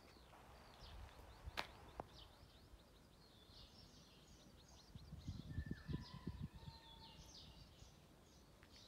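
Small birds chirping, a dense run of short, high chirps, with two sharp clicks about a second and a half in and a brief patch of low thumps and rumble a little past the middle.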